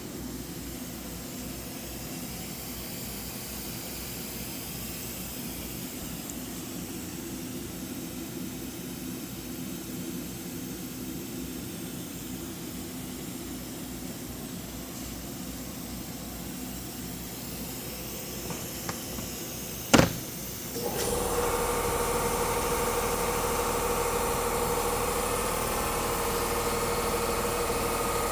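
Running machinery of a large CNC laser cutter during a cut: a steady hum, then a sharp click about twenty seconds in, after which a louder hum with a steady whine takes over.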